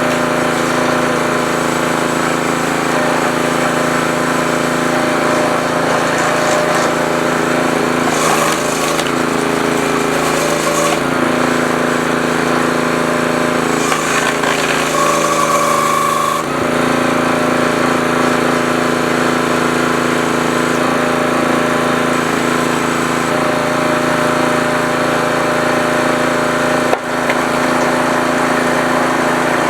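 Small gasoline engine on a hydraulic log splitter running steadily; from about 8 seconds in its pitch sags as the engine is loaded, then picks back up sharply at about 16 seconds, as when the hydraulic ram is pushed through a hard block.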